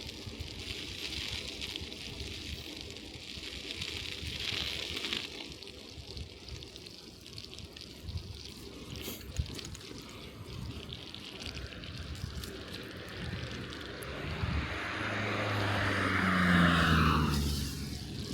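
Bicycle tyres rolling through wet snow and slush with a steady hiss, and a car passing in the last few seconds, its tyres swishing on the wet road and its engine hum swelling, then fading.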